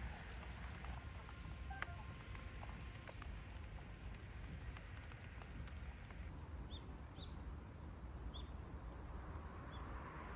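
Faint outdoor ambience with a steady low rumble; in the second half, a few short, high bird chirps come at irregular intervals.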